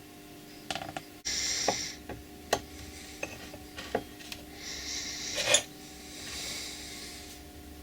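Metal bolt cutter parts being handled during disassembly and cleaning: a string of clinks and knocks of metal on metal, with two short rushing noises and the loudest knock about five and a half seconds in.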